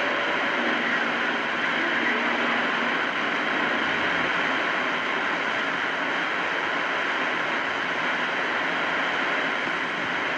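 Steady static hiss from a CB radio receiver between transmissions, with a faint low tone under the hiss for the first few seconds.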